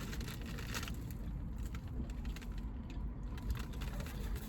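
Close-up chewing of a mouthful of Subway sandwich: many small wet mouth clicks and smacks over a low rumble.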